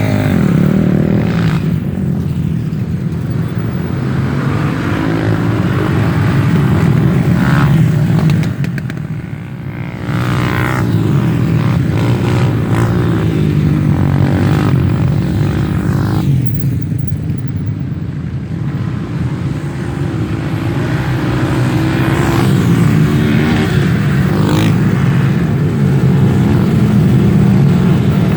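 Off-road trail motorcycle engines revving repeatedly, the pitch rising and falling as the throttle is worked, with a brief drop in level about nine seconds in.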